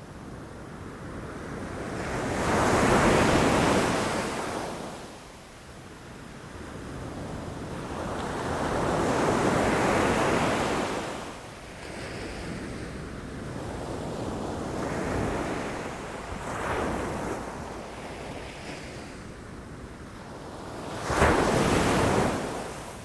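Ocean waves breaking against rocks, coming in as swells of rushing surf every few seconds; a sharper, louder crash lands near the end.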